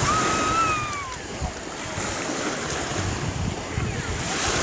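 Sea surf washing and breaking, with wind buffeting the microphone. In the first second a single high-pitched call is heard, drifting slightly down in pitch.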